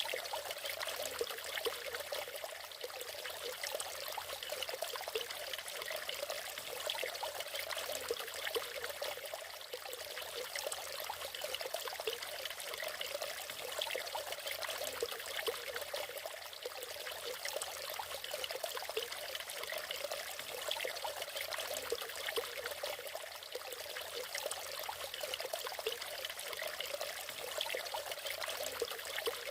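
Natural waterfall: water splashing steadily, an unbroken hiss with little low rumble.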